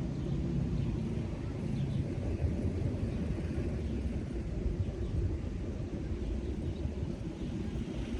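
Steady low rumbling outdoor ambience with no single clear event standing out.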